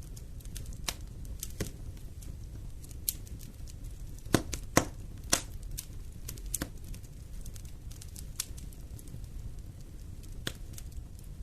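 Wood fire in a fireplace crackling: a low steady rumble of flames with scattered sharp pops, the loudest three coming close together about halfway through.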